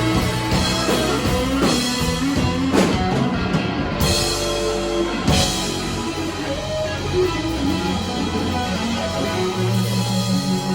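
Live band playing the closing bars of a slow blues with electric guitar and drums, with drum hits through the first half. From about five seconds in the music settles into long held notes, the song's final ringing chord.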